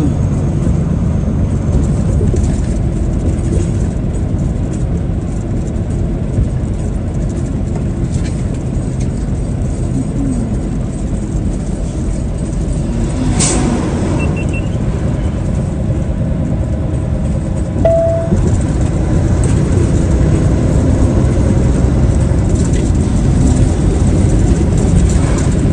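A truck rolling down the road: steady engine and road rumble heard from inside the cab. There is a sharp click about 13 seconds in and a short beep near 18 seconds.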